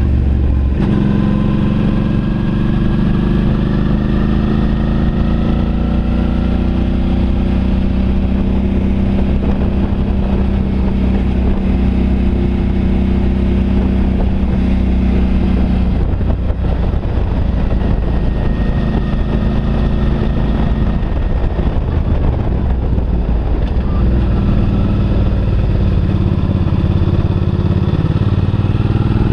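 Suzuki V-Strom DL650's V-twin engine running under way in fourth gear, a steady note that drops away about halfway through and returns, rising in pitch near the end as the bike accelerates.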